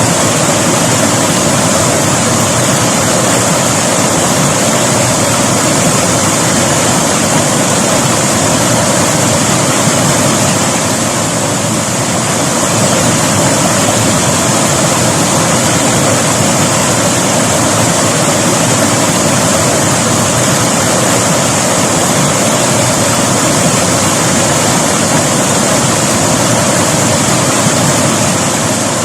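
River water flowing over rocks: a loud, steady, unbroken rush of water noise.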